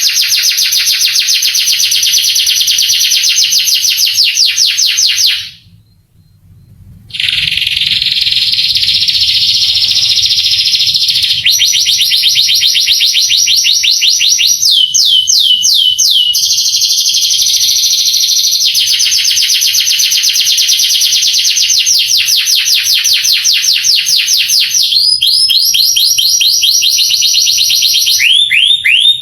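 Male canary singing a long song of rapid trills, each a fast run of repeated notes that switches to a new trill every few seconds. The song breaks off for about a second and a half near the six-second mark, then resumes.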